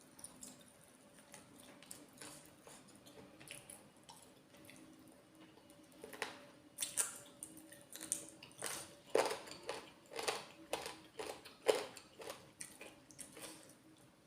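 Close-miked eating sounds: wet chewing and lip smacking, soft and sparse at first, then a run of louder, irregular chews from about halfway.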